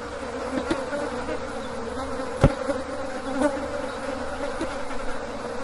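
Swarm of house flies buzzing in a steady drone, with one sharp click about halfway through.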